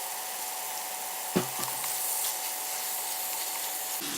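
Chopped chicken thighs sizzling steadily in melted butter in a pan, with a single sharp knock about a second and a half in.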